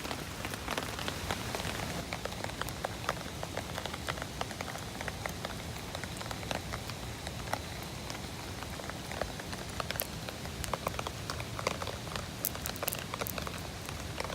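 Steady rain, with many irregular sharp drip ticks scattered through it.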